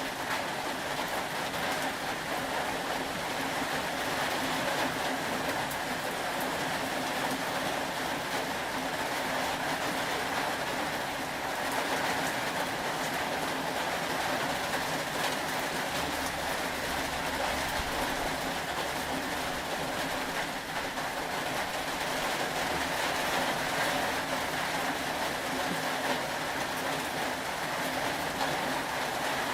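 Steady rain: an even hiss with fine small ticks scattered through it, unchanging throughout.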